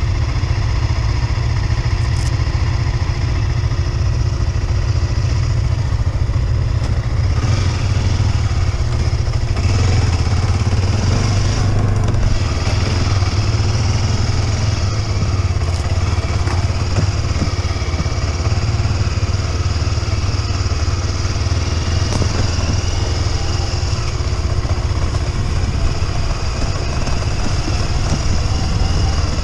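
Motorcycle engine running steadily while riding, a constant low drone with no change in pace.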